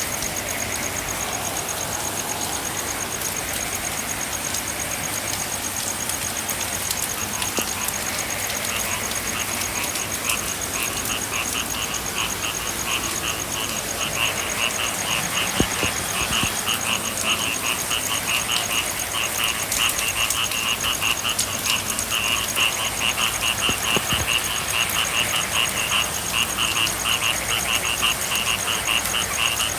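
Frogs calling in rapid pulsed trills over a steady hiss of rain, with a thin high-pitched tone held throughout. The trilling grows louder from about ten seconds in.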